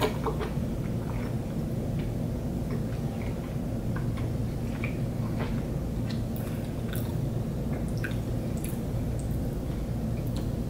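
A person chewing a soup dumpling (xiao long bao) with the mouth close to the microphone: small wet smacks and clicks, scattered irregularly, over a steady low hum.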